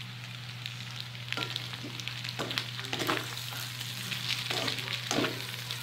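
Sliced hotdogs and ground pork sizzling in a frying pan, with a utensil scraping and stirring them in about half a dozen irregular strokes.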